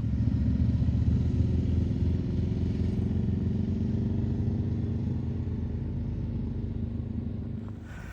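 Motorcycle engine running, slowly getting quieter and dropping away near the end.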